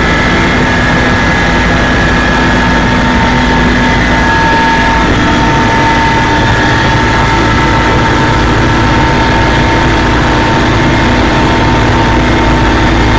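Helicopter in flight: loud, steady engine and rotor noise with a steady high whine running through it.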